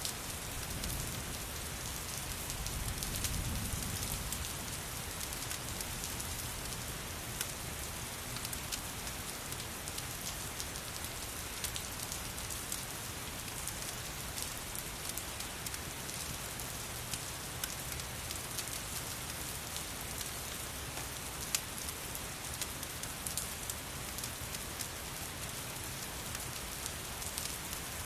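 Steady rain falling, mixed with the scattered sharp pops and crackles of a wood fire. A low rumble swells briefly about three seconds in, and one crisper pop stands out near the end.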